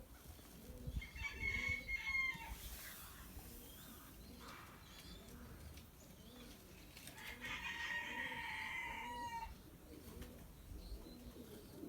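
A rooster crows twice, once about a second in and again about seven seconds in, each crow ending on a falling note. Pigeons coo softly underneath throughout.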